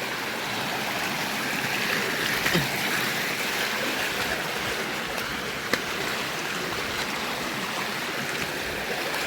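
River water flowing and rushing steadily, with a single short click a little over halfway through.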